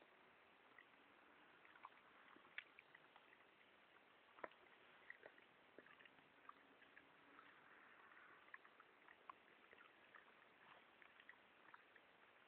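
A dog chewing gum: faint, irregular clicks and smacks of its jaws and mouth, a few a second.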